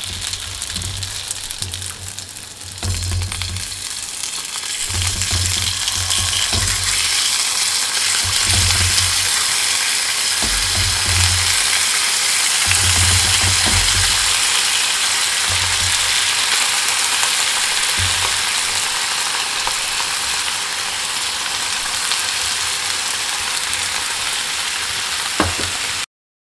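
Skewers of rice cake, carrot, cucumber and shiitake sizzling in oil in a hot frying pan as they are turned and brushed with soy seasoning sauce. The sizzle grows louder a few seconds in and stops abruptly just before the end.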